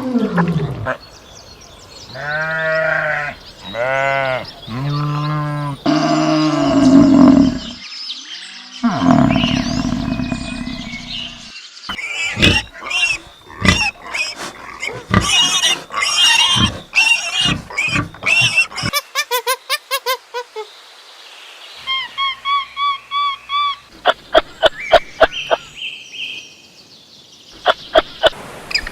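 A run of different animal calls, one recording after another: three drawn-out pitched calls a few seconds in, then bursts of rapid sharp calls, and a series of short repeated high calls near the end.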